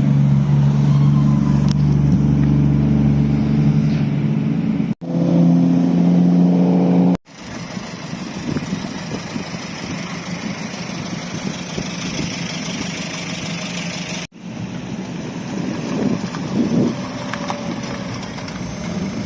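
Car engines at a car meet across several short cuts: first a loud, steady engine note, then a higher-pitched one, then a rougher, noisier engine sound with a brief rise in revs near the end.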